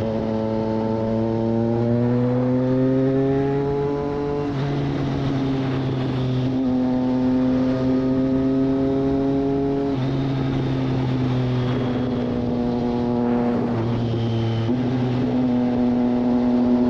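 Triumph Street Triple 765 RS inline three-cylinder engine running through a Racefit Growler full exhaust under way. Its note climbs steadily in pitch and drops sharply about four seconds in and again around ten seconds, as it shifts up a gear, then holds fairly even before stepping up again near the end.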